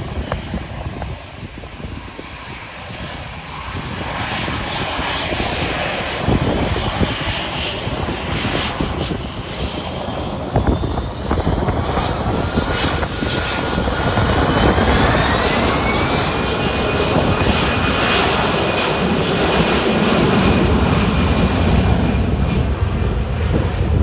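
Jet airliner's engines spooling up for a takeoff run: a whine rises in pitch about halfway through, then holds steady as the engine roar builds and grows louder.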